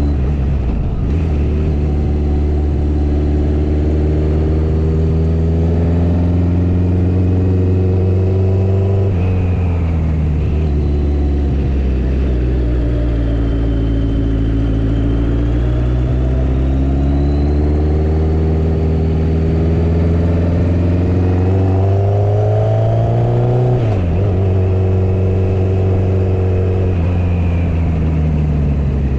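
Motorcycle engine running under way, its pitch climbing as it accelerates and dropping sharply at gear changes, twice: about nine seconds in and again near the end.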